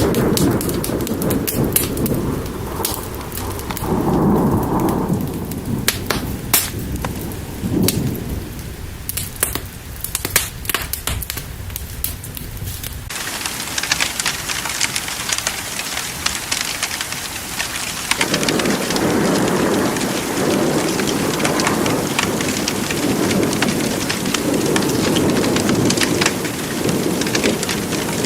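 Steady heavy rain with rolling thunder rumbling again and again, mixed with sharp crackles and pops in the first half. About halfway through the sound changes suddenly to a smoother, hissier rain.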